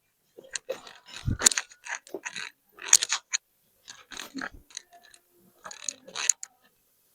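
Irregular metallic clicks, clacks and scrapes of tools and parts being handled on a tractor transmission under repair, with a heavier knock about a second in.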